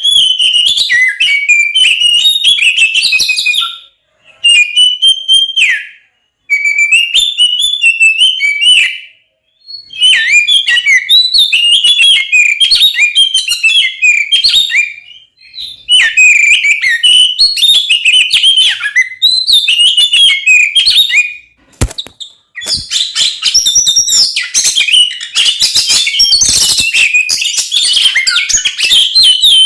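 Oriental magpie-robin (kacer) singing a loud, rapid run of varied whistles and chattering notes in bursts a few seconds long with short pauses between them: the bird's full, aggressive 'fighting' song. A single sharp click comes about 22 seconds in.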